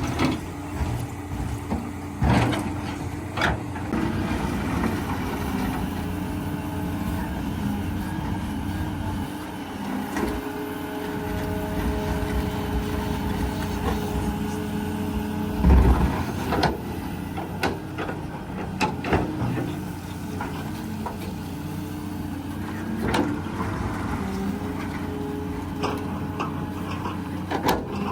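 Cat 320B hydraulic excavator digging hard red gravel sub-base: its diesel engine runs steadily under load, with repeated sharp knocks and scrapes of the bucket against the stones. One heavy thump comes about halfway through.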